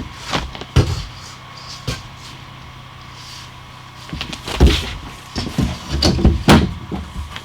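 Irregular wooden knocks and clatters of boards and tools being handled during trim carpentry, a few separate ones in the first two seconds and a quick run of them in the last three.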